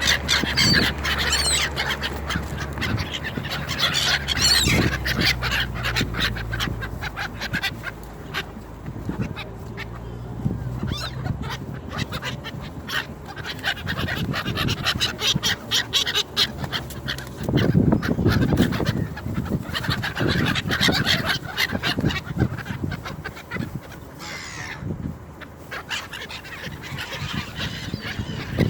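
A flock of gulls calling and squawking over one another as they are fed, with many overlapping calls, and a low steady hum underneath during the first several seconds.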